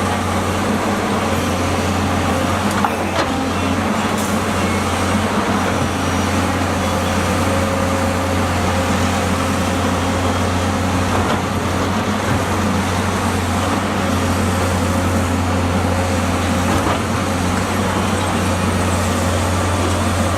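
Diesel engine of a heavy construction machine running steadily at a constant pitch, with a few faint knocks about three and four seconds in.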